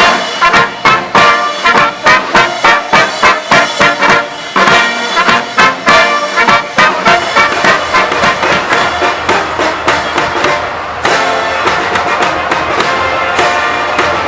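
Military brass band playing: short, punchy, accented chords for the first several seconds, then fuller sustained playing.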